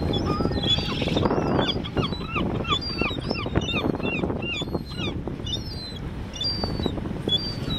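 A bird calling in a rapid series of short, high, downward-sliding notes, about three or four a second, that thins out to scattered single notes near the end. A steady low rumble runs beneath.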